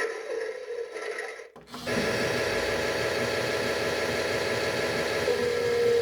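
Toy washing machine's small motor running, with a rubbing, churning texture; it cuts out briefly about one and a half seconds in, then runs steadily again.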